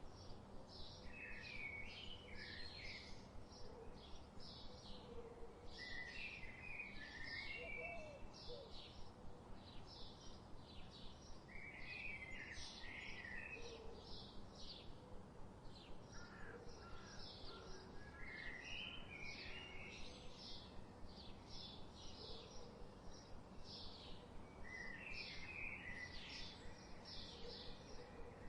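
Birds chirping: a steady run of short high chirps, about two or three a second, with a warbling phrase breaking in every few seconds.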